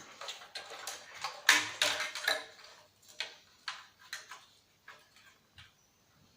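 Irregular clicks and light clatter of hard plastic and metal parts being handled while taking apart an old CRT TV/DVD combo. A quick run of clicks comes about a second and a half in, then single clicks spaced further apart, fading out near the end.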